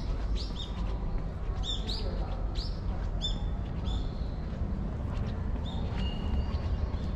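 A small songbird calling with a run of short, high chirps, each sweeping quickly up in pitch, about two a second, thinning out a little past halfway; a steady low rumble of background noise lies underneath.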